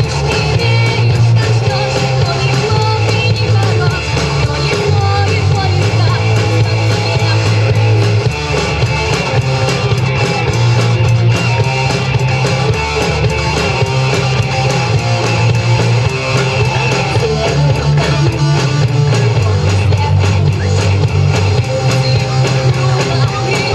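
Rock music: a band with guitars, a bass line that changes note every couple of seconds, and drums, playing steadily.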